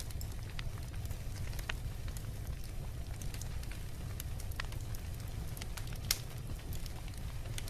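Beach bonfire of burning wood crackling, with irregular sharp pops and one louder pop about six seconds in, over a steady low rumble.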